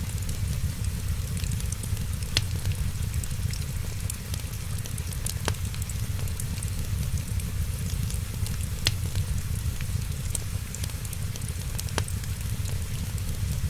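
Wood fire crackling in a fireplace: a steady low rumble and fine hiss with many small ticks, and about four sharp pops of burning wood spaced roughly three seconds apart.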